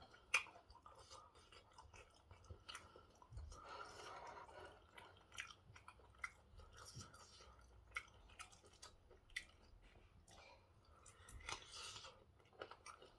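A person chewing a mouthful of pork stew and white rice: quiet, scattered mouth clicks and soft smacks.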